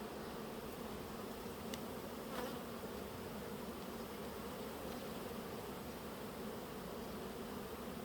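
A mass of honeybees buzzing, a steady hum. A couple of faint clicks come about two seconds in.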